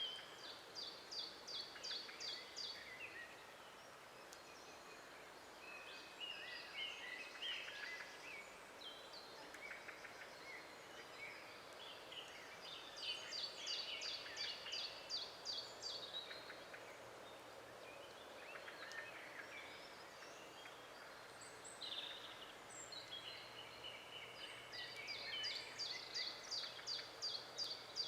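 Several songbirds singing, one repeating a fast run of high notes three times, over a faint steady hiss.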